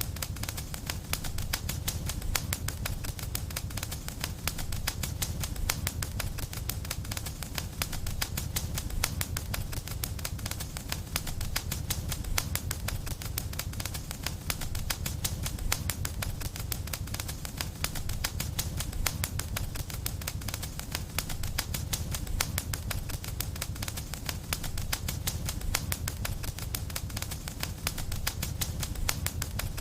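Fire in a fireplace crackling steadily, a dense run of small pops and snaps over a low rumble of the flames.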